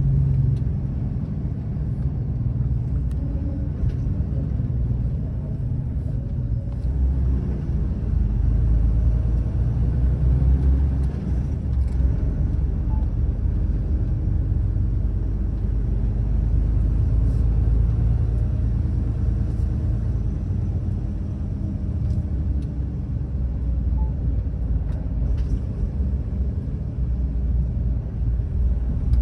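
Semi-truck driving slowly through city streets: a steady low engine and road rumble that grows louder for a few seconds in the middle.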